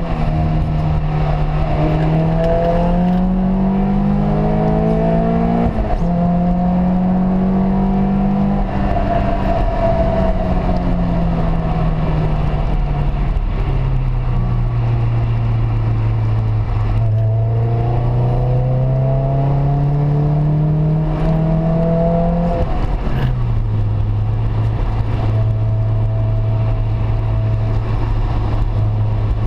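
Car engine pulling hard through the gears: its pitch climbs, drops suddenly at each upshift, sinks as it slows, then climbs again, and settles to a steady lower pitch for the last several seconds.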